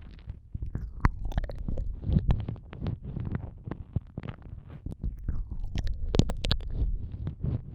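Close-up ASMR ear-eating mouth sounds into a microphone ear: irregular wet clicks, smacks and licks, with a low rumble from the mouth pressing against the mic. A cluster of louder smacks comes about six seconds in.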